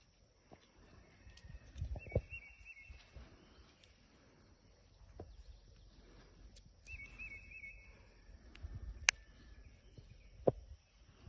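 Insects chirping in a steady high pulse, about five a second. A short trilling call comes twice, and a few sharp clicks stand out, the loudest about nine seconds in.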